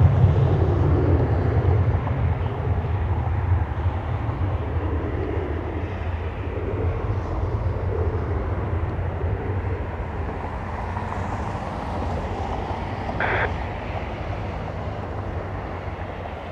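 Jet airliner departing, its engines making a low rumble that slowly fades as it climbs away.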